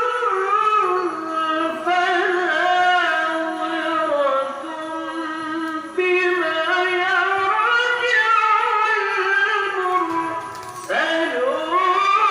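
Qari's high voice reciting the Qur'an in melodic tilawah, holding long ornamented notes in maqam Rast at its high third level. The phrase breaks off about halfway through and a new, high phrase starts shortly before the end.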